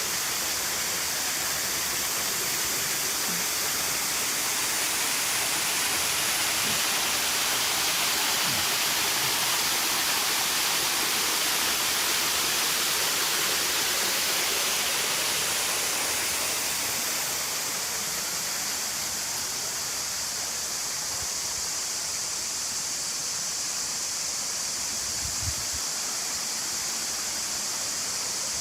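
Rushing water of the Platanistos stream and waterfall, a steady hiss that softens a little about two-thirds of the way through.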